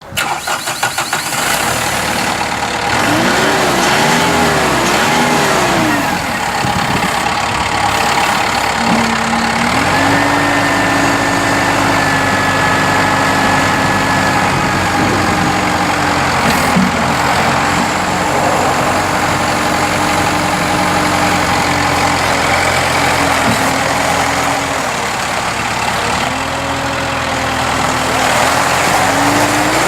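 The Kubota M7060's four-cylinder turbo diesel engine running. It revs up and down a few times, then runs steadily at raised speed with a few brief dips in revs.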